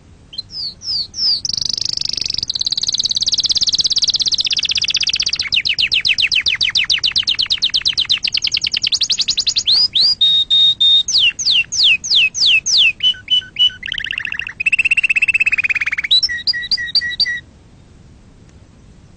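Domestic canary singing one long song made of rapid trills and rolls that change from section to section: fast repeated notes, a held whistle about ten seconds in, quick down-sweeping notes, and a few lower notes just before it stops about two seconds from the end.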